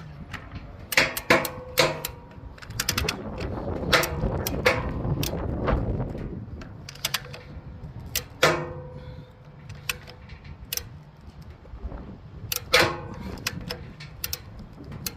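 Metal pole work platform creaking and popping under a rising test load, a run of irregular sharp clicks and cracks with a few louder pops as it shifts and deflects.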